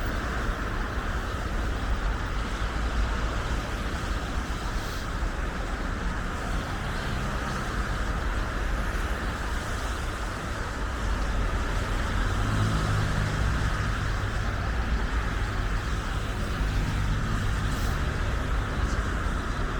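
Steady road traffic noise, with a vehicle's low engine hum growing louder about twelve seconds in.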